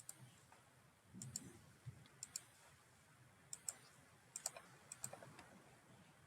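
Faint computer mouse clicks, mostly in quick pairs, about once a second.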